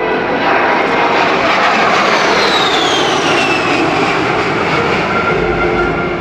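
Jet aircraft flying past, its engine noise loud and steady, with a high whine that falls in pitch as it goes by.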